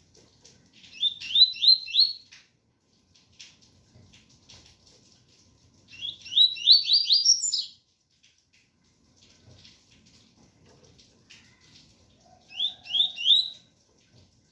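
Double-collared seedeater (coleiro) singing its 'tui-tui' song: three phrases, each a quick run of four or five rising whistled notes, a few seconds apart.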